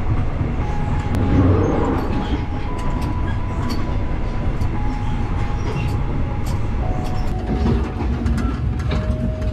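Running noise inside a moving sleeper train carriage: a steady low rumble from the wheels and carriage, with thin whining tones that shift pitch every few seconds and scattered sharp clicks and rattles.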